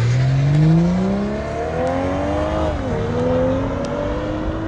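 A car's engine accelerating hard through the gears. Its pitch climbs steadily, drops sharply at an upshift about three seconds in, then climbs again.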